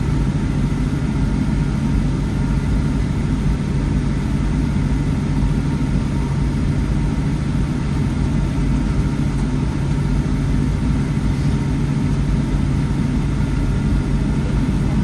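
Steady cabin drone inside a Boeing 757-300 airliner with its jet engines at idle while it waits for departure: an even rumble with a constant low hum.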